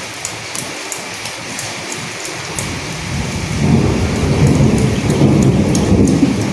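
Steady rain with scattered drop patter. A low thunder rumble swells in about halfway through and rolls on to near the end.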